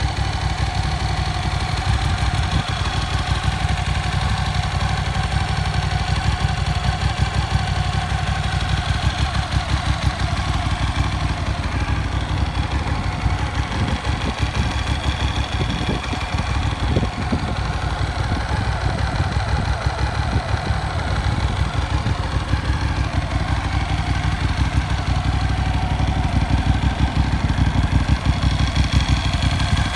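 Moto Morini Milano's 1187cc V-twin engine idling steadily.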